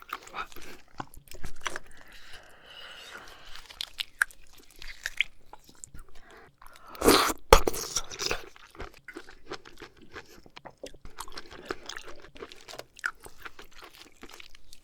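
Close-miked chewing and biting of oysters: many small, irregular mouth clicks, with a louder pair of sharp sounds about seven seconds in.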